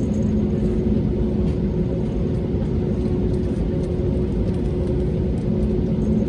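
Steady cabin noise inside an Airbus A320-271N airliner: an even low rumble with a few held hums from the aircraft's engines and systems, unchanging in level.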